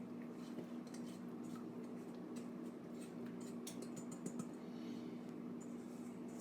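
Faint clicks and light rustling of food being moved around on a silicone-lined sheet pan, over a steady low hum.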